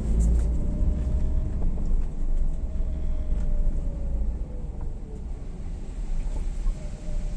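A vehicle driving: a steady low rumble with a faint whine that drifts slightly up and down in pitch.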